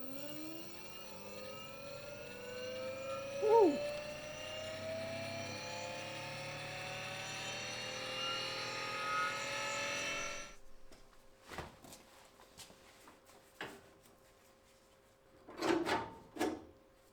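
Audi PWM-controlled electric radiator fan spinning up, its motor whine climbing steadily in pitch as the fan gains speed over about ten seconds. The sound then cuts off abruptly and is followed by a few short knocks, two of them louder near the end.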